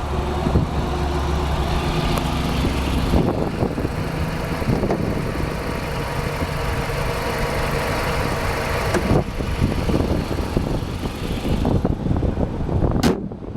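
A 2013 Jeep Compass's 2.4-liter inline-4 engine idling steadily, heard with the hood open. There is a single sharp knock near the end.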